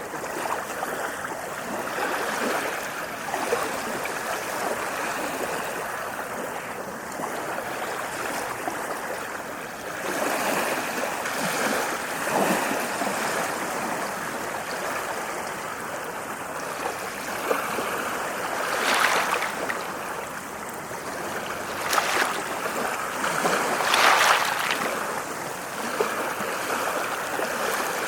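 Ocean waves washing onto a shore: a continuous rush of surf, with several sharper breaking splashes in the second half.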